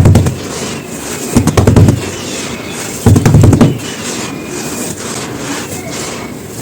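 Dry, crisp chunks of charcoal ash crumbling and crunching: three loud crunches about a second and a half apart, then a lower, steady crackle of fine crumbling.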